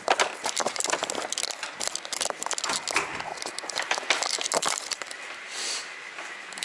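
Packaging being crumpled and handled for recycling: a dense run of irregular crinkling and crackling with many sharp clicks.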